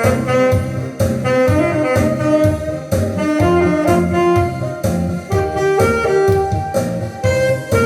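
Alto saxophone playing a trot melody, note to note, over an accompaniment with a steady low beat.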